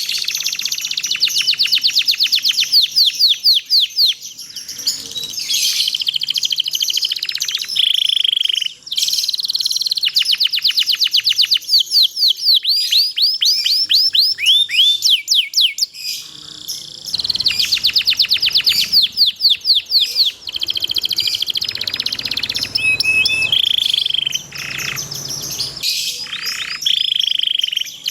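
Domestic canary singing in long, rapid trills of quickly repeated down-sweeping notes, with a few short pauses between phrases.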